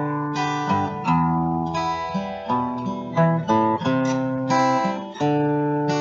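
Acoustic guitar strumming chords in an instrumental break of a country gospel song, with no singing.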